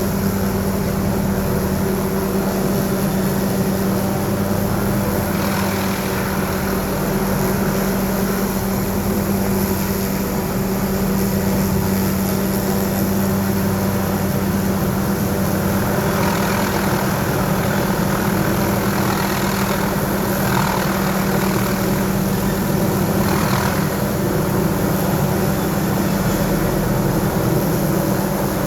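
Helicopter running steadily: a constant mechanical hum with a strong steady drone and a rushing noise above it.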